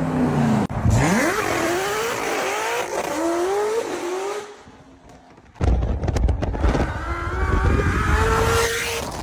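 A high-performance car engine revs sharply, then accelerates hard through the gears, its pitch climbing and dropping back at each shift. After a brief quieter gap about five seconds in, a loud engine with a deep rumble comes in suddenly and again pulls up through the gears.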